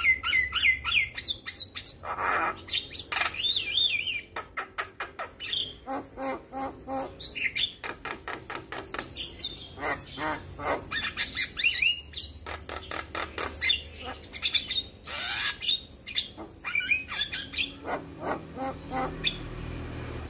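Javan myna singing: a busy, varied stream of whistled notes, harsh chattering calls and fast runs of clicks, with a long rising note about fifteen seconds in.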